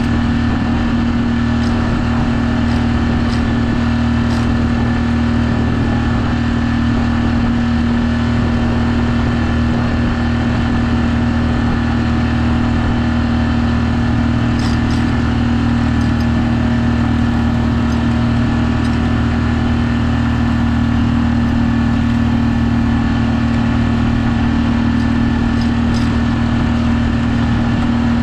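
Sailboat's auxiliary engine running steadily at constant speed under way, a continuous even drone with a strong hum.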